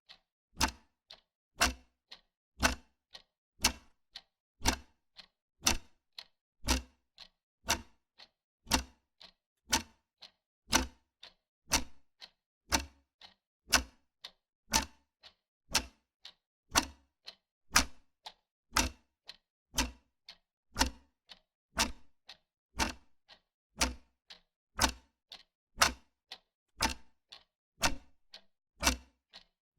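Wall clock ticking steadily, about two ticks a second, the ticks alternating louder and softer in a tick-tock pattern.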